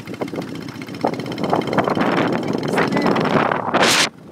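Busy street traffic dominated by motorbikes, with wind buffeting the microphone; a loud rushing burst comes just before the end.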